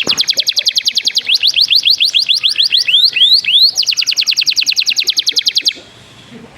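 Canary singing: a fast trill of repeated high notes, changing to slower downward-sweeping notes and then back to a rapid trill, stopping abruptly near the end.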